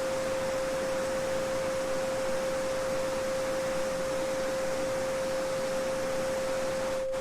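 A steady pure 528 Hz tone held without change over the even rushing of a small stream. The water sound drops out for an instant near the end while the tone carries on.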